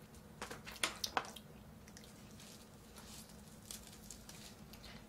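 Faint close-miked eating sounds: wet mouth clicks and smacks while chewing, with a cluster of sharp clicks about a second in and a few softer ones later.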